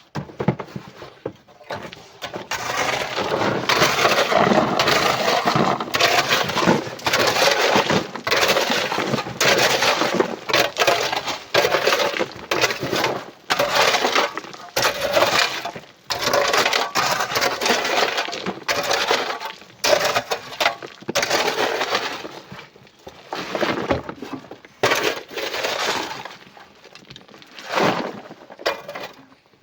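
Loose coral and rock crunching and clattering in a long run of rough scraping and knocks as it is loaded, with a few short breaks.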